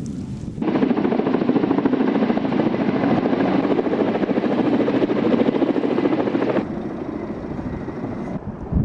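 Helicopter flying, its rotor chopping rapidly; it is louder for most of the stretch and drops back about two-thirds of the way through.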